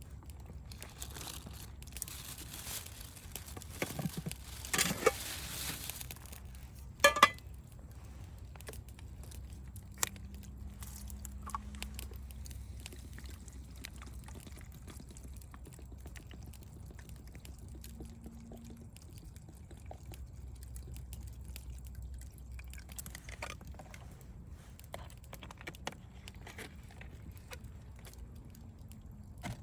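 Campfire crackling softly with scattered small pops over a low rumble. A few louder rustles and knocks come in the first several seconds, the sharpest about seven seconds in.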